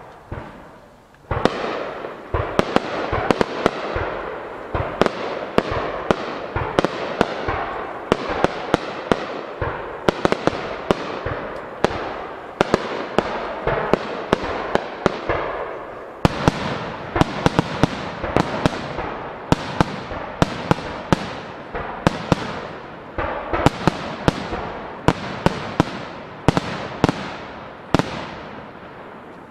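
Starmine fireworks barrage: shells fired in rapid succession and bursting overhead. Sharp bangs come several a second from about a second in, over a continuous rumble of echoing bursts, and thin out near the end.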